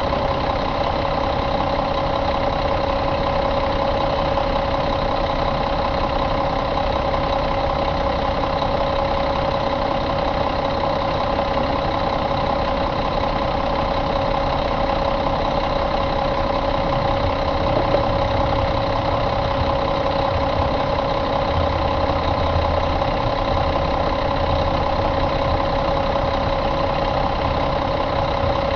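2007 Mack E7 inline-six diesel engine idling steadily.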